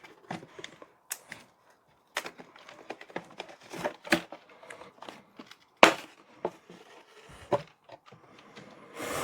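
Toy packaging being handled while parts are pulled out of the box: scattered clicks, knocks and crackles, the sharpest click about six seconds in.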